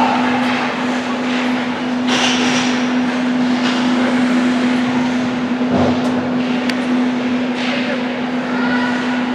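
Ice hockey rink sound during a youth game: a steady hum under a continuous wash of skating and crowd noise, with a few sharp clicks.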